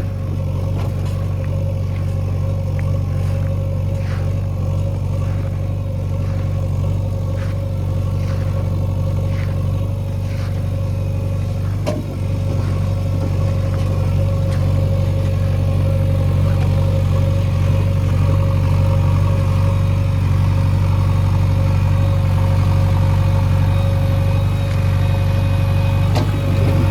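Heavy diesel engine of earth-moving machinery running steadily at a constant speed, with light clanks every second or so in the first ten seconds. It grows slightly louder about twelve seconds in.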